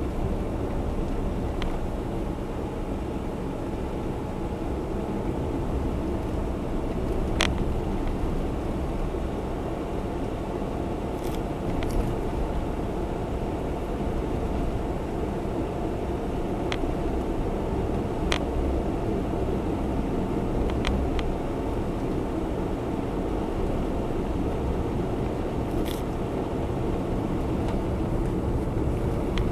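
Steady road and engine noise inside the cabin of a Honda Zest Spark kei car while driving, with a few faint clicks scattered through it.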